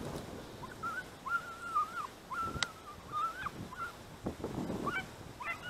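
Distant birds calling: a run of short, even honking calls, one after another, with a single sharp click about halfway through.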